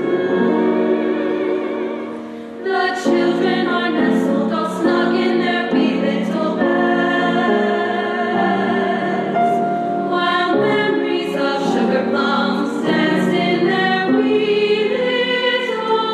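A choir singing a Christmas carol in sustained chords, with a short break between phrases about two and a half seconds in.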